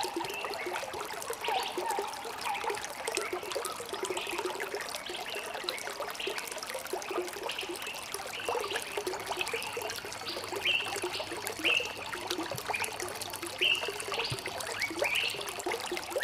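Water trickling and gurgling, with a steady run of quick bubbling plinks.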